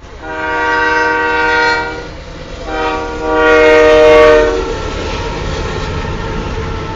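Union Pacific freight locomotive's air horn sounding two long blasts, the second one louder, followed by the steady low rumble of the train rolling by.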